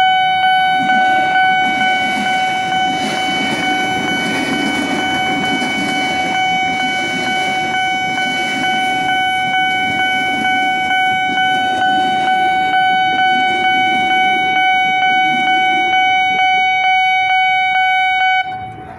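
Train horn held on one steady note for about eighteen seconds, cutting off suddenly near the end, over the rumble of a train running through the level crossing.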